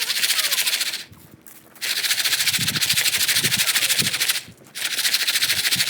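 Popcorn pan being shaken hard over a campfire: a fast, even rattle of kernels in the pan, in three spells of shaking broken by brief pauses about a second in and again near the end.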